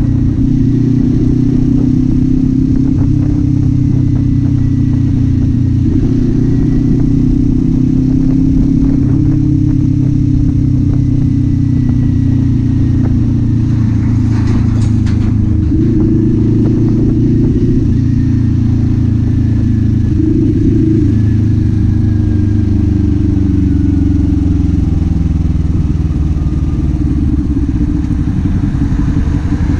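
Kawasaki Z400's parallel-twin engine and exhaust running steadily under way, the note rising and falling gently with small throttle changes. A brief clatter about halfway through.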